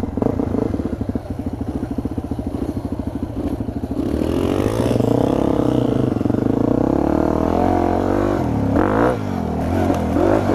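Yamaha WR250 dual-sport's single-cylinder four-stroke engine at low revs with even firing pulses, then revving up louder about four seconds in as the bike pulls away under power.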